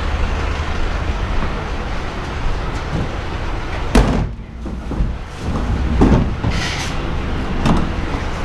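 Plastic wheelie bins being wheeled and set down in a line, with a sharp knock about four seconds in and a few softer thumps after, over a steady background rumble.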